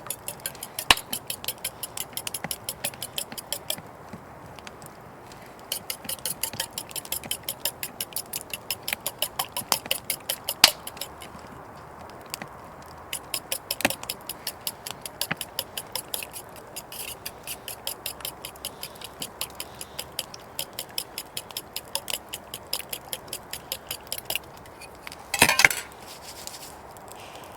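A utensil clinking quickly and evenly against a dish, about six strokes a second, in runs of a few seconds with short pauses, as in beating eggs or batter by hand. A short, louder scraping rustle comes near the end.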